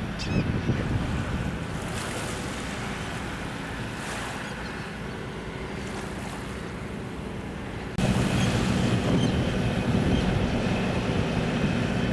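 Wind on the microphone over sea surf, with a faint steady low hum underneath; it steps up abruptly louder about eight seconds in.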